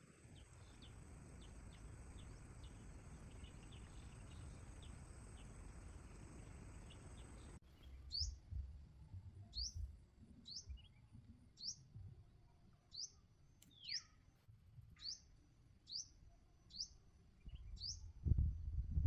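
A wild bird calling: a short, high note that falls in pitch, repeated about once a second from about a third of the way in. Before that there is a steady high whine with many quick faint chirps, and low rumbling comes in near the end.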